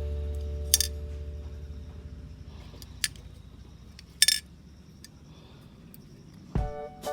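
A few short, sharp metallic clicks, three in all, the last one loudest and doubled, as hard parts are handled. Background music fades out at the start and comes back near the end.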